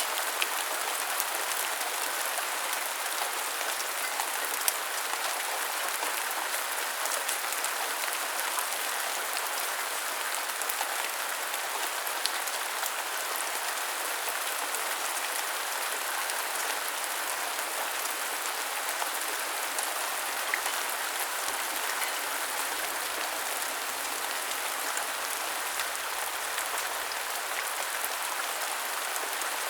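Steady rain falling, with a continuous hiss and scattered sharp drip ticks of drops hitting surfaces close by.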